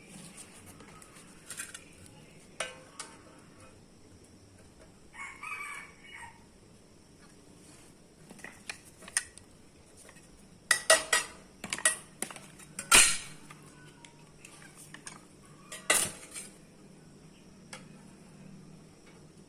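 Sharp metallic clanks and taps of steel plate and tools being handled, scattered and irregular, with a burst of loud knocks about eleven to thirteen seconds in. A brief bird call is heard about five seconds in.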